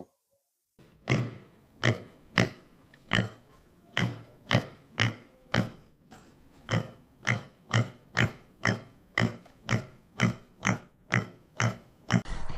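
Pig grunting in a long series of short oinks, about two a second, with a brief pause about midway.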